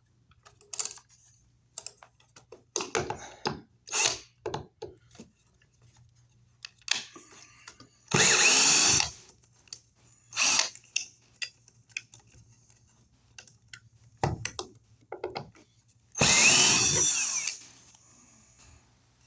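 Two short runs of a power drill, about a second each, one about eight seconds in and a longer one near the end, with the motor's pitch sliding as it runs. Scattered clicks and knocks of handling come between them.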